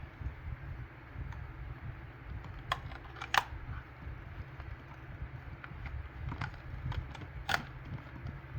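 Scattered clicks and taps of the Bissell Little Green spot cleaner's plastic parts being handled and fitted, the two loudest about three and a half and seven and a half seconds in, over a low steady hum.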